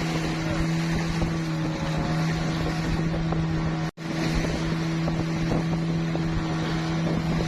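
A motor runs steadily at one constant pitch, with wind rushing over the microphone. The sound cuts out for an instant about halfway through, then carries on unchanged.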